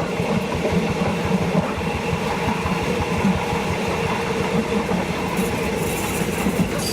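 Passenger train running along the line, heard from on board: a steady rumble and hum with wheel-on-rail clatter. From about five seconds in, short sharp clicks sound over it.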